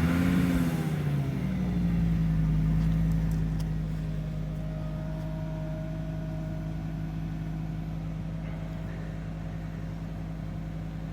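Lancia Kappa Coupe engine just after a cold start: the revs flare up and drop back in the first second or so, then it settles into a steady idle.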